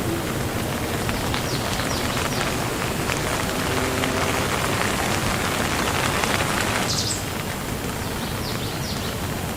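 Steady rain falling as a dense hiss, which eases slightly about seven seconds in. A few short, high chirps from a bird sound over it.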